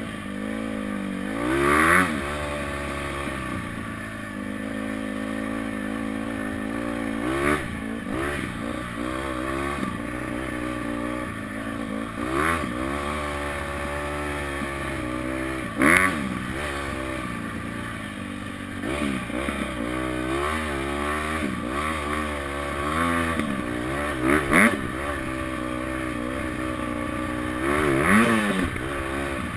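Honda CRF dirt bike's four-stroke single-cylinder engine being ridden hard, its pitch climbing and dropping again and again as the throttle opens and closes through the gears. A handful of short loud bursts break in along the way.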